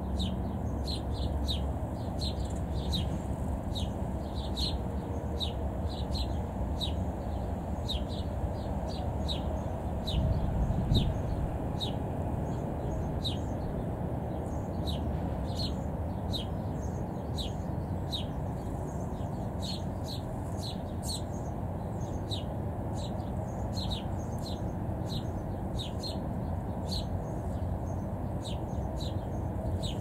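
Small birds chirping over and over: short, high chirps about two a second, over a steady low background rumble that swells briefly about ten seconds in.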